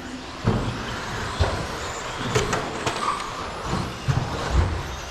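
RC stadium trucks running on the track: a steady noise broken by several sharp knocks and low thumps.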